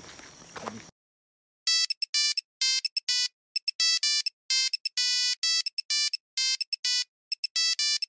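Electronic outro jingle of short beeping notes at changing pitches in a quick, uneven ringtone-like tune. It starts after a moment of background noise cuts off to silence about a second in.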